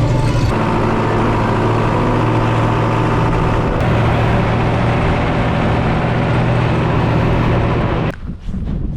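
Tractor engine running steadily under load, then cut off abruptly about eight seconds in, leaving faint crunching.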